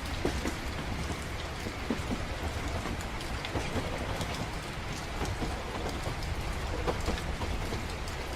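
Steady rain with many scattered sharp drop ticks, over a continuous low rumble like that of a moving train.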